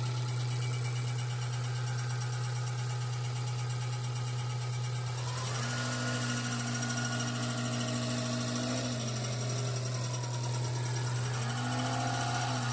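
Subaru Forester engine idling with a strange mechanical whir from the clutch. A whining tone rises in about five seconds in, drops out near nine seconds, and comes back near the end. The noise goes away when the clutch pedal is pressed.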